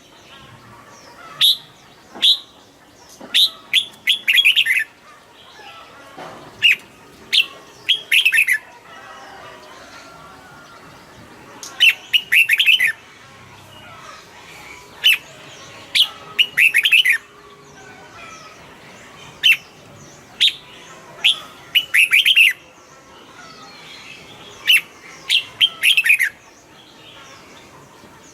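Red-whiskered bulbul singing: short, bright phrases of a few quick whistled notes, repeated every second or two with pauses between.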